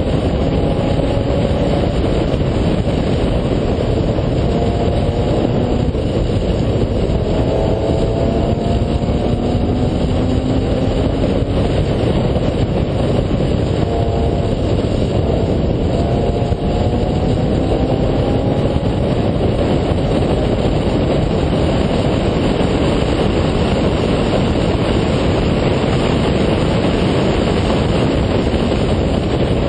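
BMW E46 M3's S54 inline-six running at high revs on a hard track lap, its note climbing several times under acceleration. Heavy road and wind noise heard from inside the cabin largely covers it.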